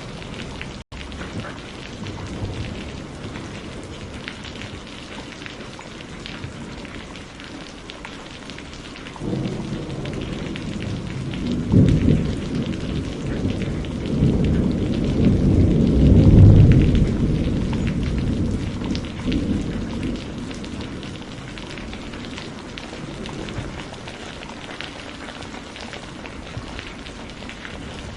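Steady rain falling, with a long roll of thunder that builds about a third of the way in, is loudest in two swells, and dies away again.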